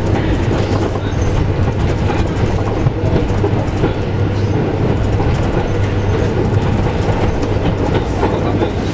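Inside the moving EN63-001 electric multiple unit: steady running rumble of wheels on rail with a constant low hum, and a light clickety-clack from the track.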